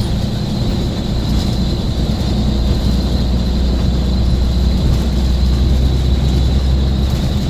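Scania bus diesel engine running steadily under way, a deep continuous rumble with a faint steady high whine over it.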